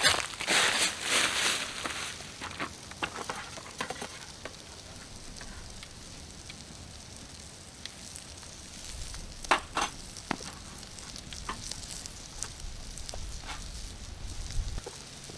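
Food sizzling on a grill over a campfire, with sharp pops and crackles from the burning wood. A loud burst of sizzling hiss comes in the first two seconds and a shorter one about ten seconds in.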